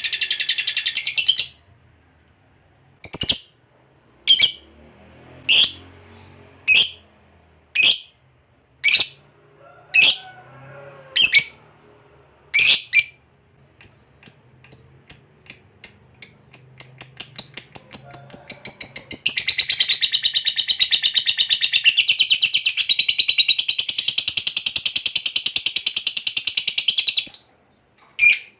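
Lovebird calling. A short burst is followed by single sharp chirps about a second apart. These speed up into a rapid run of chirps and then into one long continuous chattering trill of about eight seconds, the long 'ngekek' call. A final single chirp comes near the end.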